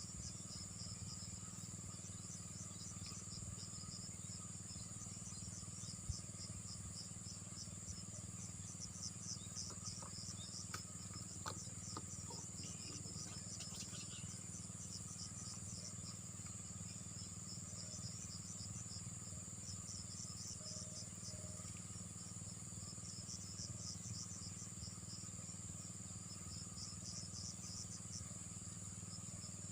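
Insects chirping in rapid pulsed trains over a steady high-pitched drone, with a few faint clicks and knocks around the middle.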